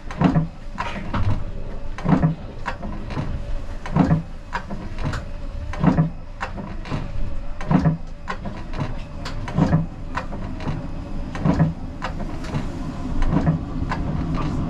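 Siemens Combino tram running, heard from the driver's cab: a regular knock with a low thud about every two seconds over the steady running noise.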